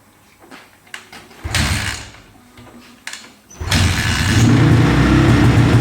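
Honda CRF450R's 450 cc single-cylinder four-stroke engine being started: a short burst of noise about one and a half seconds in, then the engine catches about three and a half seconds in and runs steadily.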